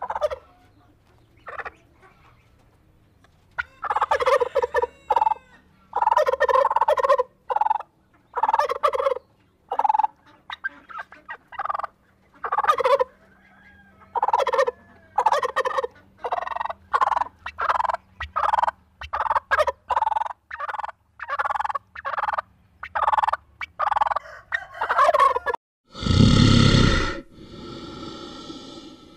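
Domestic turkey toms gobbling over and over, a short call about every second, sparse at first and then steady from about four seconds in. Near the end the gobbling stops and a loud, breathy rushing sound cuts in.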